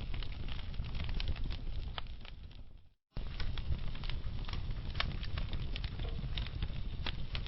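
Wood fire crackling and popping, with sharp snaps over a low rumble. The sound fades out to a brief silence about three seconds in, then cuts back in abruptly.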